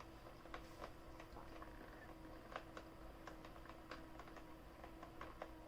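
Deestop steam foot massager running with its shiatsu rollers on: a faint steady hum with scattered light, irregular clicks.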